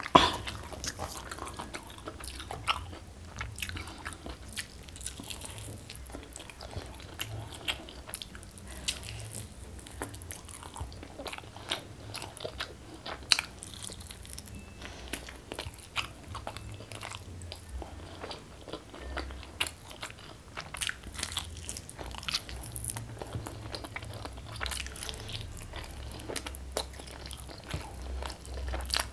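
Close-up eating sounds: a person biting and chewing chicken, tearing meat off the bone with many short, sharp wet mouth clicks and smacks.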